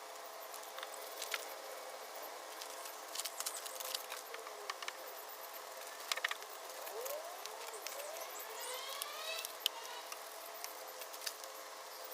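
Small detailing brushes, a wheel woolie and a trim brush, being handled and worked over engine-bay surfaces: scattered light clicks and taps over a faint steady hum. A few quick rising squeaks or chirps come about two-thirds of the way in.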